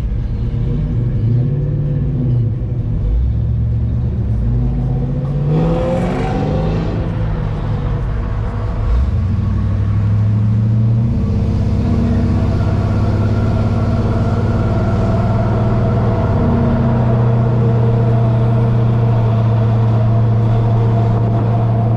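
Vehicle engine running at low speed, its pitch rising and falling over the first several seconds, then holding a steady low drone from about eleven seconds in. A brief rush of noise sounds about six seconds in.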